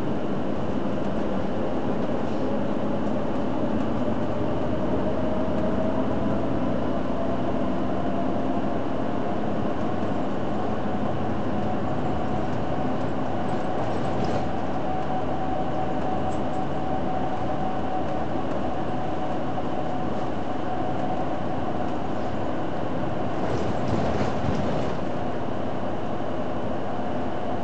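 Hino Blue Ribbon City Hybrid bus driving, heard inside the cabin: steady running and road noise with a whine that rises in pitch over the first several seconds and then holds steady.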